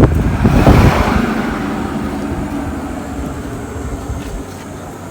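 Mitsubishi Adventure's 4D56 diesel engine catching and starting: a sudden loud burst that peaks just under a second in, then settling into a steady idle that slowly quietens.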